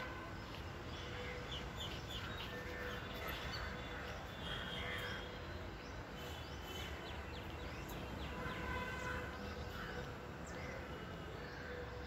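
Babblers calling: many short chirping notes, often overlapping, over low background noise with a faint steady hum.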